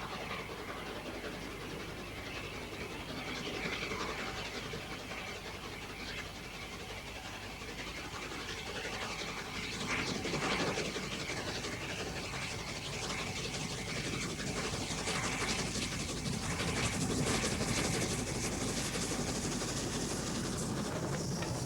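LNER Peppercorn A2 class Pacific steam locomotive running fast with a heavy train: exhaust noise and the clickety-clack of wheels over rail joints. It gets louder about halfway through, as the train draws nearer.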